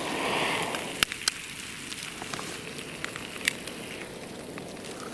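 Food frying in a hot oiled non-stick pan on a camping burner. A loud burst of sizzling comes in the first second as something is put into the pan, then a steady sizzle with scattered pops and crackles.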